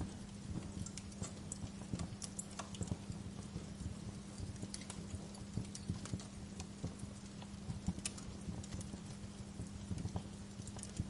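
Wood fire crackling with irregular sharp pops and snaps, a few louder ones scattered through, over a steady low hum.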